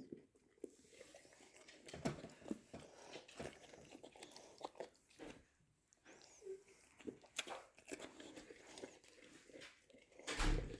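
A boxer dog eating yogurt: irregular wet licking, smacking and chewing clicks, with one louder, deeper knock near the end.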